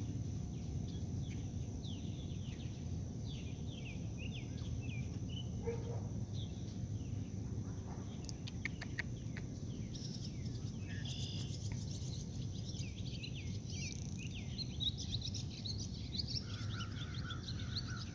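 Many small birds chirping and twittering in quick short falling notes, over a steady high-pitched insect hum and a low, even rumble. A few sharp clicks come about eight seconds in.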